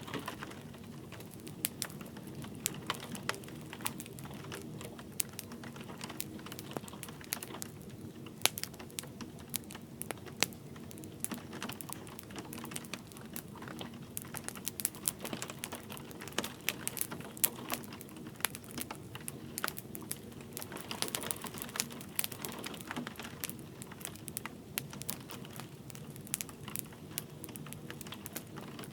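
Wood fire crackling in a fireplace: irregular sharp snaps and pops over a low steady rumble of the flames, with gentle rain in the background.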